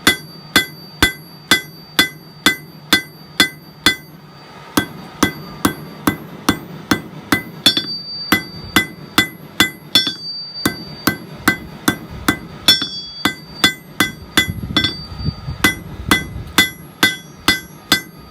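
Hand hammer striking hot steel on an anvil in steady forging blows, about two and a half a second, each with a bright metallic ring; the blows break off briefly about four seconds in, then go on.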